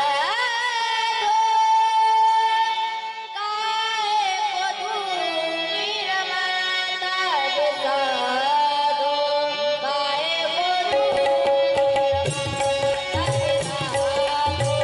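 Devotional Marathi bhajan sung by a male singer in long, ornamented melodic phrases, with a note held for a couple of seconds near the start. About eleven seconds in, a steady sustained accompaniment tone and hand-drum strokes join the voice.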